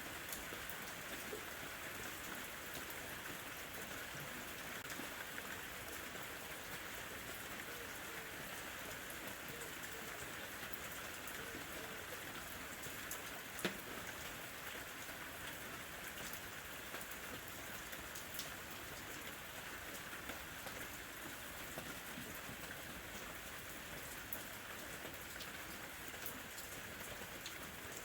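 Gentle rain falling steadily, with scattered sharper drop ticks and one louder tick about halfway through.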